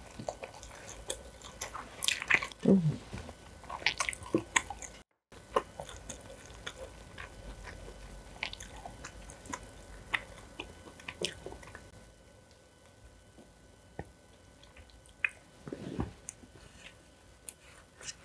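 Close-miked chewing of black bean sauce noodles, with many short wet mouth clicks and smacks. Near five seconds in, the sound drops out completely for a moment.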